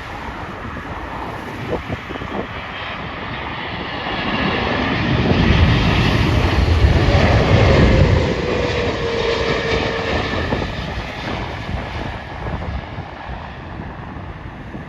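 Jet airliner on final approach passing the microphone. Its engine noise swells to a peak about halfway through, then fades, with a whine that falls in pitch as it goes by.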